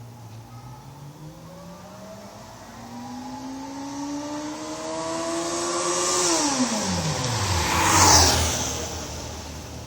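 2001 Honda CBR600 F4i's inline-four engine on its stock exhaust pulling up through the revs as the bike approaches, the pitch rising for about six seconds, then dropping sharply as it passes by. The loudest moment is a rush of noise as the bike goes past about eight seconds in, and the sound then fades away.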